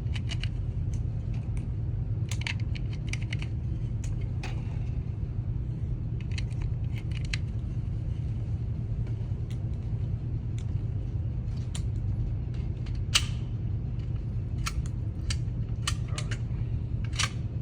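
Irregular small metallic clicks and clinks, typical of pistol cartridges being pushed into a magazine, with a slightly sharper click about two-thirds of the way through. A steady low rumble sits underneath.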